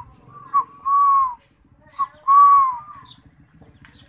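Spotted dove cooing loudly and close: a short note, then a longer coo that falls in pitch at its end, given twice.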